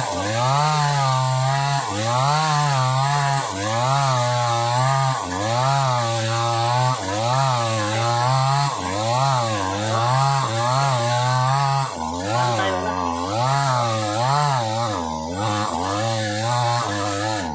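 Sumura CS6500S two-stroke petrol chainsaw cutting through old, hard wood under heavy load. The engine speed rises and falls about once a second as the chain bogs in the cut and recovers, sagging deeper in the last few seconds. It sounds strained.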